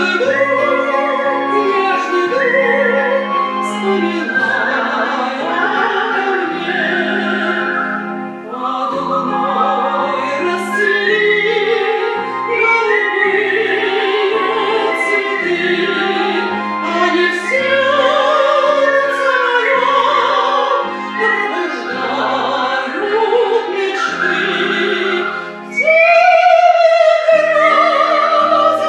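Operatic-style singing with vibrato over instrumental accompaniment that has a stepping bass line. The voice grows louder and holds a high line near the end.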